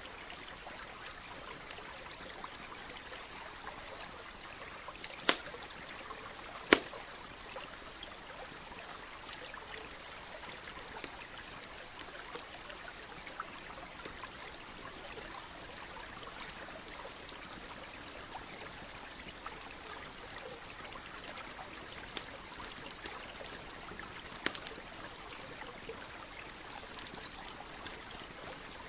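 Campfire crackling, with frequent small snaps and a few sharp pops (loudest about five and seven seconds in, another a little before the end), over the steady rush of a running stream.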